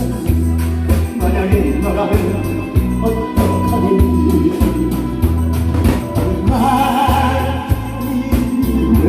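A singer performing a Korean trot song live through a PA, over a backing track with a steady, pulsing bass beat.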